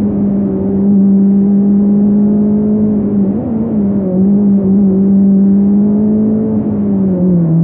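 Fiat Punto hillclimb race car's engine pulling hard, heard from inside the cabin. The note holds nearly steady, wavers and dips briefly about three seconds in, and drops a little near the end.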